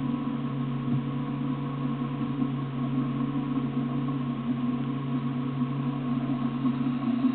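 Off-road vehicle engine running steadily, an even droning hum with no revving.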